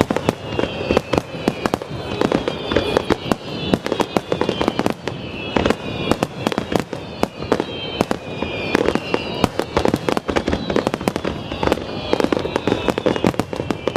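Aerial fireworks bursting in rapid succession, a dense run of bangs and crackling, with overlapping high whistling tones that slide downward in pitch.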